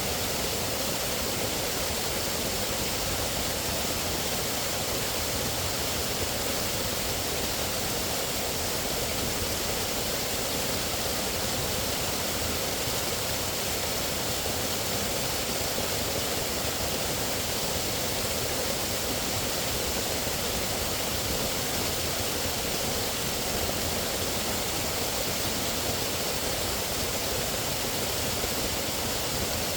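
Running water rushing steadily and evenly, without breaks or separate sounds.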